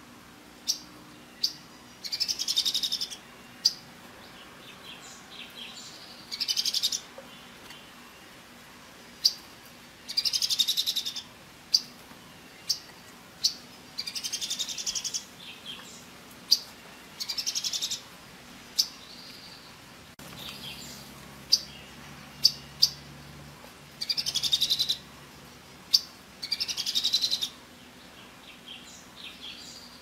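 Songbird calls: single sharp chips scattered through, and short rapid trills of about a second each, coming back every three to four seconds.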